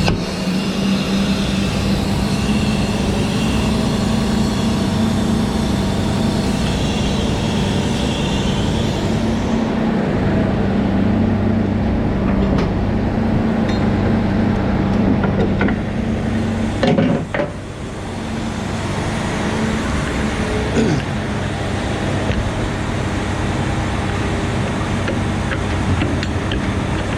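Scania V8 truck engine running steadily with road noise. The engine note shifts about a third of the way through, and there is a short clatter with a brief dip in loudness about two-thirds of the way through.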